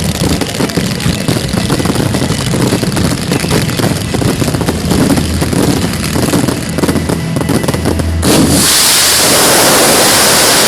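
Fireworks display finale: a dense, rapid barrage of bangs and crackling shells. About eight seconds in it stops abruptly, and a large crowd breaks into loud applause and cheering.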